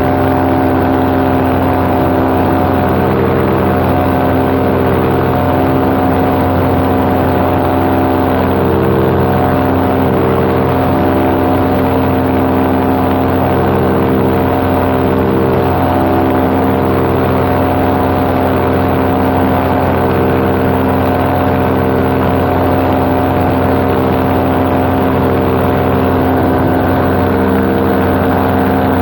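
Paramotor's two-stroke engine and propeller running steadily at cruise power in flight, an even drone with a constant pitch.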